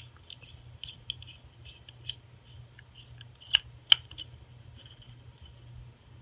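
Light clicks and taps from handling a phone and small repair tools, with two sharper clicks near the middle, over a low steady hum.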